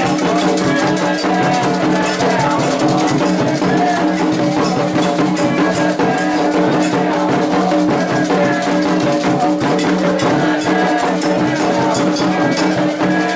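Candomblé ceremonial music: drums played with a shaken rattle keeping a dense, steady beat under sustained pitched sound, without a break.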